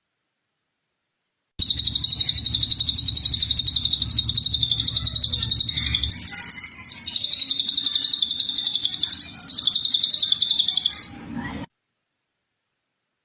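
A recorded bird gives one long, very rapid high-pitched trill lasting about ten seconds, starting and stopping abruptly, with a faint low hum under it for the first part.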